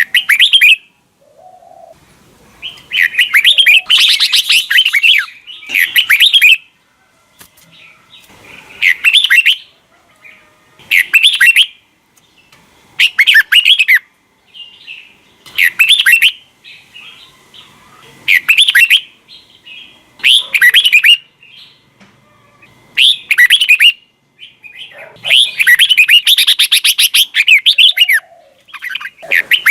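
Red-whiskered bulbul singing: short, quick whistled phrases repeated every two seconds or so, with two longer phrases, one near the start and one near the end.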